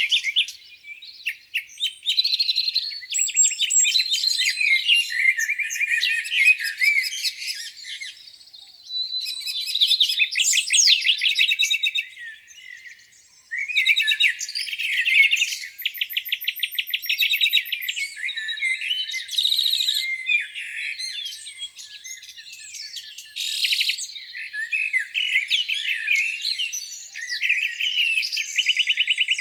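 Several songbirds singing at once in a spring dawn chorus, overlapping warbling phrases and chirps with rapid trills now and then. There is a brief lull about twelve seconds in before the singing picks up again.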